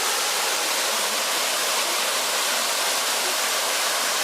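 Steady rush of water falling and running over the rocks of the Kobalar-Su mountain river at a waterfall: an even, unbroken hiss with little deep rumble.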